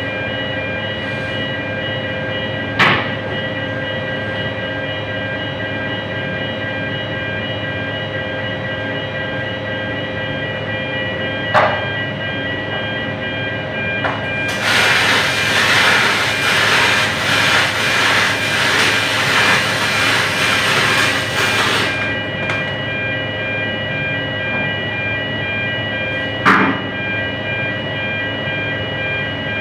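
A steady machine hum with several high whining tones runs throughout, broken by a few sharp clicks. About fifteen seconds in, an aluminium MIG welding arc strikes and hisses and crackles steadily for about seven seconds, then cuts off.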